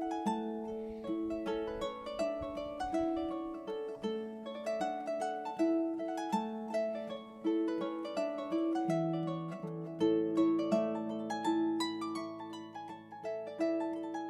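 Background music: a traditional Irish tune on harp, a steady run of plucked notes over held low bass notes that step down about two-thirds of the way through.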